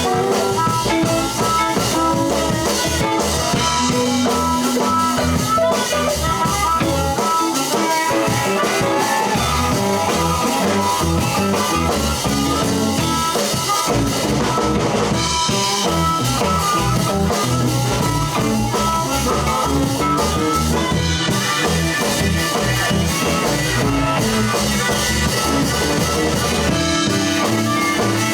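Live blues band with drum kit, bass, guitar and keys playing an instrumental break between vocal verses.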